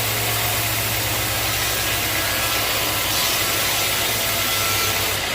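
Sawmill machinery running steadily: a low, pulsing engine hum under an even wash of noise.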